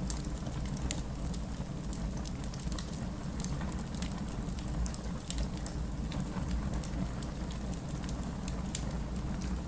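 Wood fire crackling: a steady low rumble of burning logs with many sharp, irregular pops and snaps.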